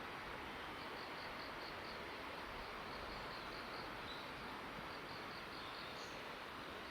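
Insect chirping: high, evenly pulsed chirps in two short runs, over a steady hiss of outdoor background noise.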